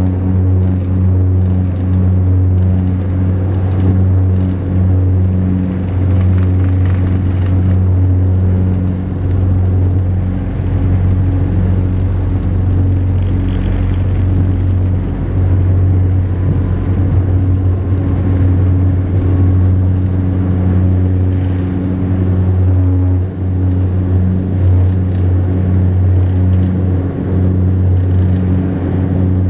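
Cabin drone of a Saab 340B twin-turboprop airliner in flight: the steady, loud hum of its propellers, a low tone with overtones that throbs slightly and unevenly.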